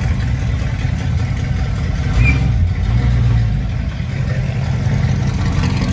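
Car engine running at low revs with a steady low rumble, swelling louder for a moment about two seconds in.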